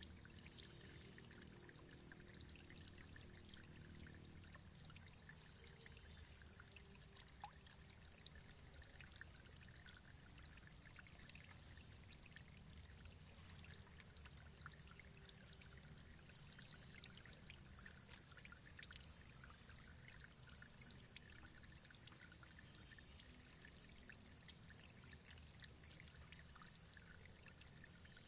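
Faint running water trickling and splashing steadily, with two steady high-pitched tones above it.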